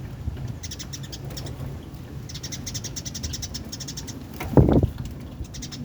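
Birds chirping in quick high bursts over a steady low hum, with one short loud lower call about four and a half seconds in.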